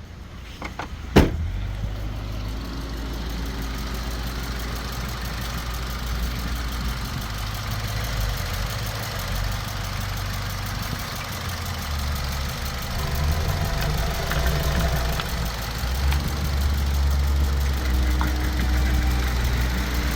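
Opel Corsa D's 1.2-litre Z12XEP four-cylinder petrol engine running at idle on test, after one sharp click about a second in. The engine sound grows somewhat louder in the second half.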